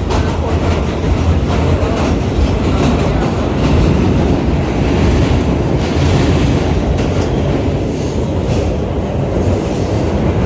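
New York City Subway R211 train running on the rails: a steady rumble with scattered clicks of the wheels over the rail joints.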